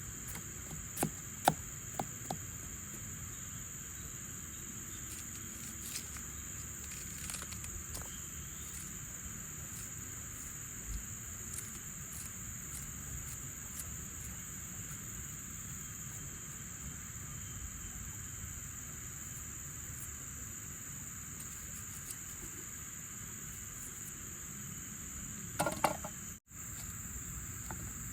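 Steady high-pitched insect chorus, a continuous buzzing trill from the surrounding forest, under a low even hiss. A few sharp clicks and knocks come in the first two seconds and again in a short cluster near the end, just before the sound cuts out for a split second.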